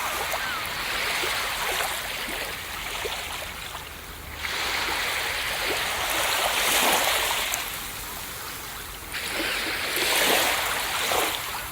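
Ocean surf washing onto a beach: a steady hiss of moving water, with fresh waves surging in about four and a half seconds and nine seconds in, and ebbing between.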